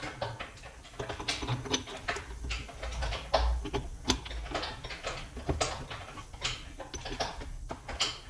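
Irregular clicking and knocking of small mechanical parts being handled, with several sharper knocks.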